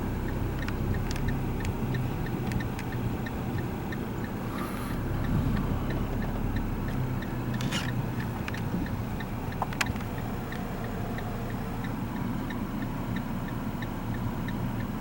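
Fiat Linea engine idling, heard from inside the cabin with the air conditioning on, with a steady, evenly spaced light ticking throughout. A couple of sharp clicks come near the middle.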